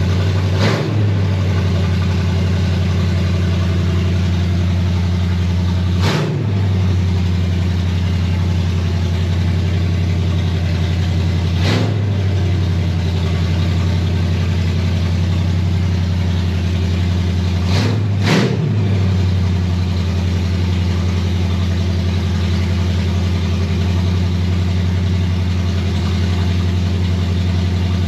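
327 cubic-inch small-block Chevy V8 running steadily on its first start, with four short sharp blips about six seconds apart.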